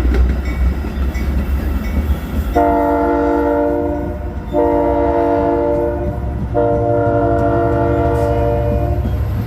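Locomotive air horn sounding a chord of several tones in three blasts, starting about two and a half seconds in; the last blast is the longest. A train's low rumble runs under it.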